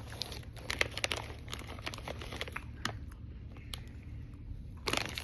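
Plastic snack wrapper crinkling in the hands as it is handled and opened: irregular crackles, thinning out after about three seconds, with a louder rustle near the end.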